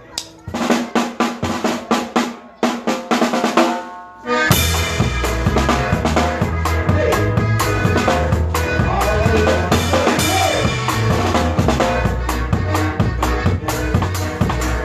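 Live regional Mexican band starting a song: about four seconds of sharp drum hits on snare and cymbals, then the full band comes in with a heavy bass line and a steady beat.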